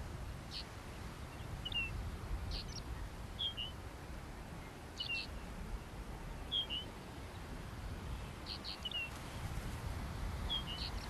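A small bird calling in short, high chirps, about nine of them at irregular intervals roughly a second apart, over a steady low rumble of wind.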